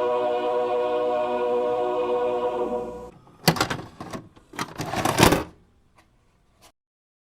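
A sustained musical chord holds, then fades out about three seconds in. It is followed by a cluster of loud, sharp crackling noise bursts lasting about two seconds, and one last faint click.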